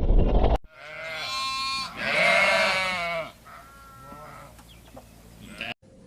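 An animal calling: two long, wavering pitched cries about a second each, the second louder, then several fainter, shorter calls.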